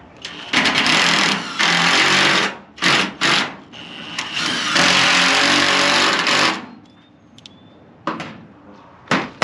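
Power driver running in bursts, driving screws: two long runs of a couple of seconds each with short spurts between, followed by a couple of sharp hammer knocks near the end.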